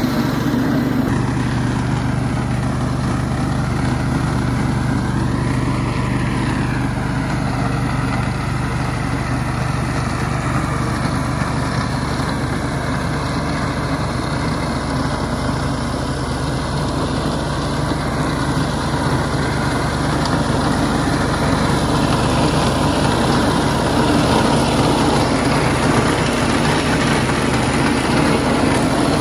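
An engine running steadily at a constant pitch, with no change in speed.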